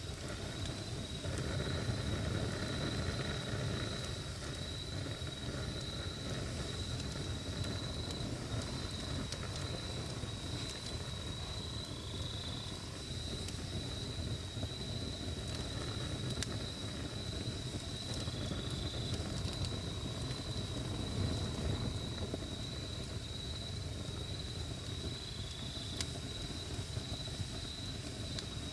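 Wood campfire burning outdoors with a steady low rumble and a few faint sharp crackles, while an insect trills in one steady high, unbroken note.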